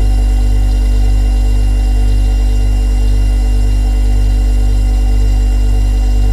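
Refrigerator running with a steady, unchanging low hum, with a few faint steady higher tones over it.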